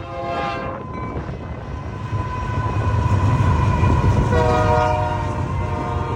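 Train horn sounding two chord-like blasts, a short one at the start and a longer one about four seconds in, over the low rumble of the passing train, which swells toward the middle.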